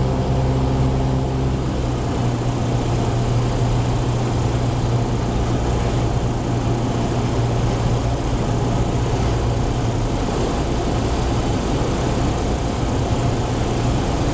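Cessna 172's single piston engine and propeller, a steady drone heard inside the cabin during the landing approach. A higher tone in the drone fades about two seconds in.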